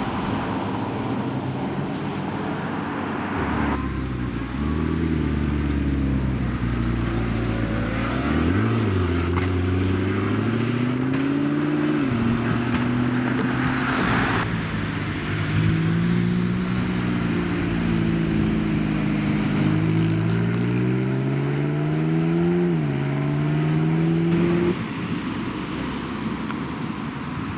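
Supercar engine accelerating hard, its note climbing and then dropping sharply at gear changes, twice over, with a loud exhaust throughout.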